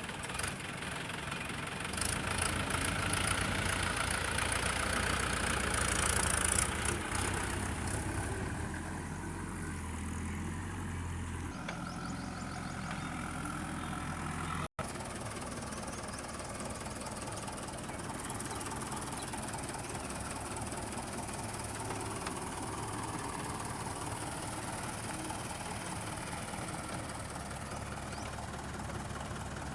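Heavy diesel machinery running at a coal-loading site, louder and working harder for the first dozen seconds, then settling to a steady run. There is a brief dropout in the sound about halfway through.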